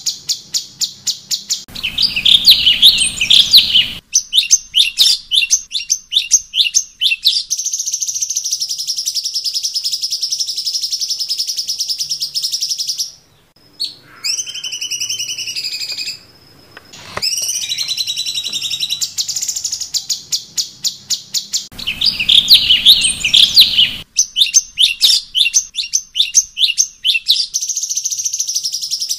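Cucak cungkok song for masteran, loud and clear: fast runs of sharp chirps at about four or five a second, alternating with a long steady high trill. About halfway through the song drops out for a few seconds, leaving a few gliding whistles, and then the same sequence starts again.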